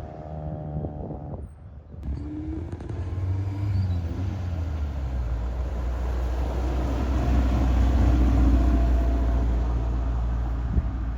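Classic car engines driving out: one engine fades away in the first two seconds, then a deeper engine rumble builds to its loudest about eight seconds in and eases near the end.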